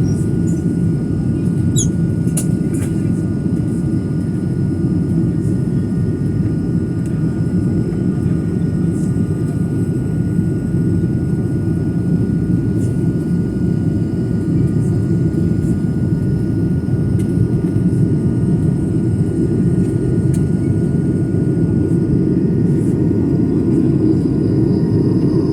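Steady engine and airflow noise heard from inside an airliner's cabin as it flies after takeoff, a deep even rumble with a faint steady hum above it. A few light clicks sound about two seconds in.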